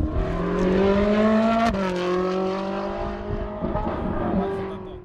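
Car engine accelerating, its pitch climbing steadily, then dropping abruptly at an upshift under two seconds in; it keeps pulling in the next gear and fades out near the end.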